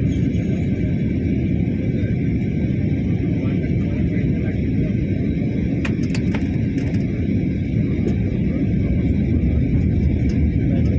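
Steady airliner cabin noise during the descent: a low, even rumble of engines and airflow with a faint steady high whine above it, and a few light clicks about six seconds in.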